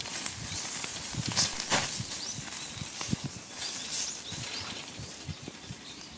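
Wood fire crackling in a small firepit: irregular sharp pops and snaps over a steady hiss.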